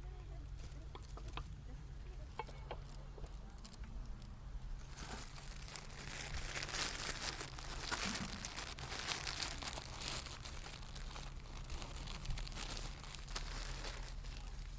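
Dense crinkling and rustling, like something being crumpled or handled, starting about five seconds in and dying away near the end, over a steady low hum.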